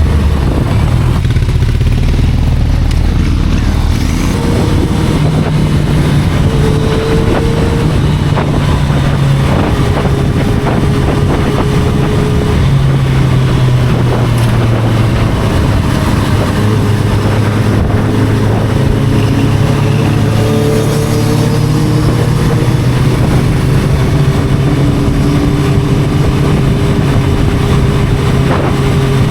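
Inline-four sport motorcycle engine running under way, its note stepping up and down in pitch every few seconds with the throttle.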